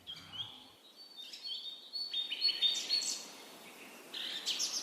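Birds chirping: a string of short, high chirps and trills, busiest and loudest around the middle, over faint outdoor background noise.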